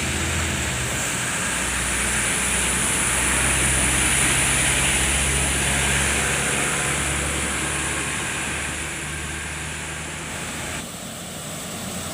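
A heavy road vehicle passes by: a low engine rumble and tyre noise build to their loudest about four to five seconds in, then fade, dropping off sharply near the end.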